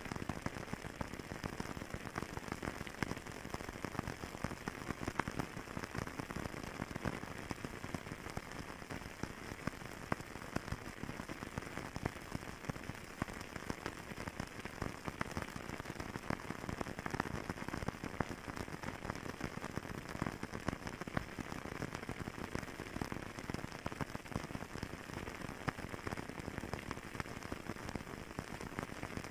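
Fireplace crackling: a steady stream of small pops and crackles from burning wood.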